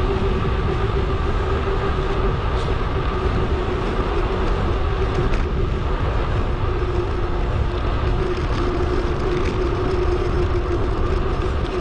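Steady wind and rolling noise on a moving bicycle-mounted action camera: a dense low rumble with a steady drone that sinks slightly in pitch near the end.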